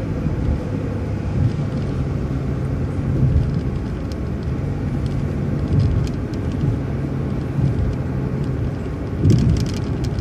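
MCO ViewMaster transit bus driving, heard from inside the cabin: a steady engine hum over road rumble, with a few short knocks near the end.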